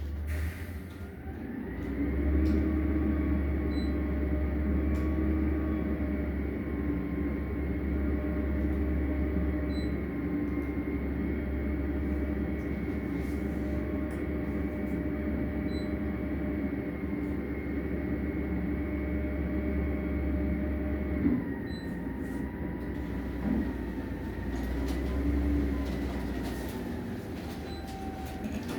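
Garbage truck engine running at raised revs with a steady whine over it, rising a couple of seconds in and dropping in pitch about two-thirds of the way through.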